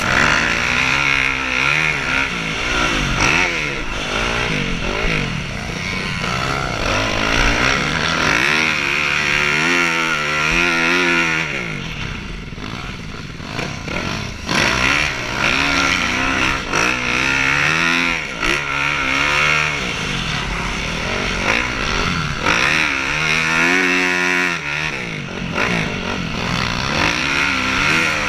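Motocross motorcycles racing, their engines revving up and dropping back over and over, with more than one bike heard at once.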